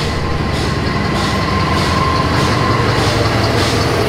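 Diesel locomotive hauling a passenger train past at close range: a steady low engine rumble with rolling noise from the wheels on the rails. A thin high whine swells through the middle and then fades.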